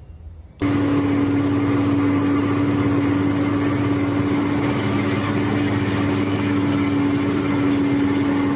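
A vehicle's engine running steadily, a loud even noise with a strong constant hum, starting abruptly about half a second in.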